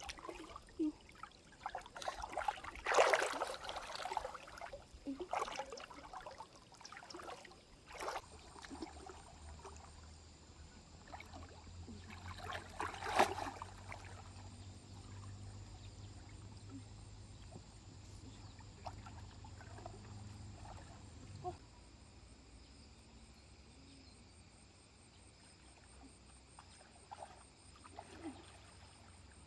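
Stream water trickling, with a few short, louder noises in the first half. A low, steady hum sets in about eight seconds in and stops suddenly a little past twenty seconds.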